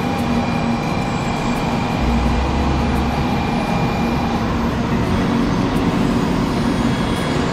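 JR West 700 series 'Rail Star' Shinkansen train pulling into the platform: a steady rumble and rush of the cars gliding past.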